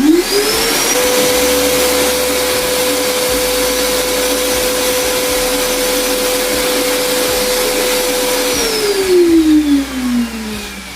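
PowerHouse 1,200-watt wet/dry shop vacuum switched on, its motor whine rising to full speed within about a second and running steadily while sucking up sawdust. About eight and a half seconds in it is switched off and winds down with a falling whine, with a short louder burst of noise as it slows.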